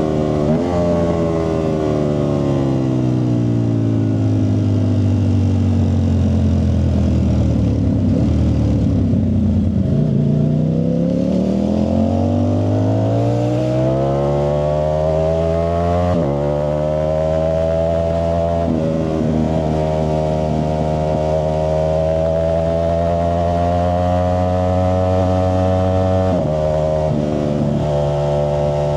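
Ducati Streetfighter V4S's V4 engine running through a Zard exhaust: the engine note falls steadily for about nine seconds, climbs again over the next six, then holds fairly steady, with a few sudden small changes in pitch.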